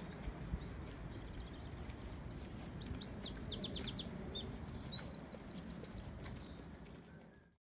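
A songbird singing two quick runs of high, falling notes, each lasting about a second, over steady low background noise; the sound cuts off abruptly near the end.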